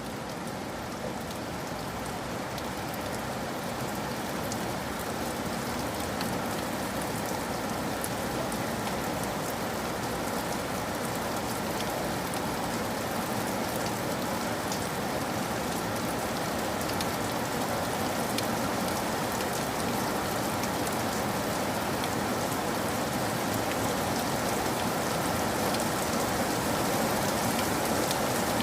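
Steady rain falling on a surface, a dense even hiss with scattered drop ticks, slowly growing a little louder.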